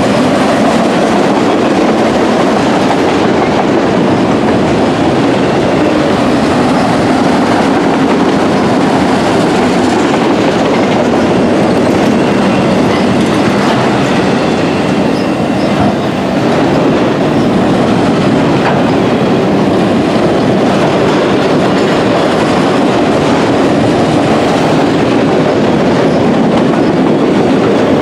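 CSX freight train's autorack cars rolling past close by: a loud, steady noise of steel wheels on the rails.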